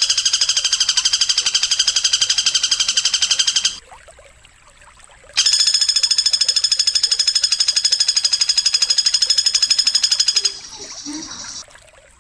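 A high, buzzing trill repeated as a fast pulse of about nine beats a second, sung in long unbroken phrases. It breaks off for under two seconds and resumes, then fades to a fainter sound near the end. This is the kind of masteran song used to teach cage songbirds.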